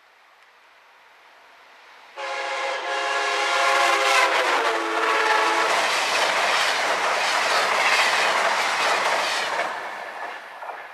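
A train approaching at speed; about two seconds in its horn sounds suddenly, a chord of several notes that slides slightly lower as it passes, for about three seconds. Then the rushing, clattering noise of the train going by, fading near the end.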